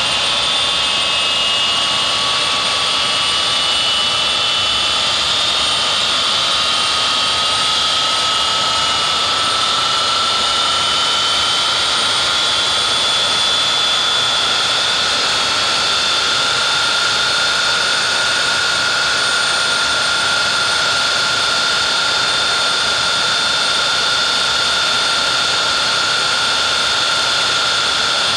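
Avro Vulcan bomber's Rolls-Royce Olympus turbojets running loudly and steadily. Their whine rises slowly in pitch over the first dozen seconds or so, then holds.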